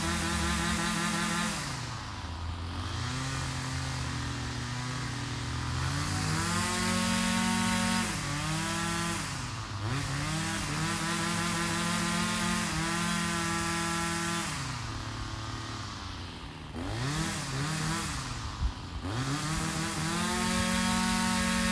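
Small two-stroke power-tool engine running, its pitch sagging and recovering several times, with the deepest wavering dip near the end. A single sharp click comes late on.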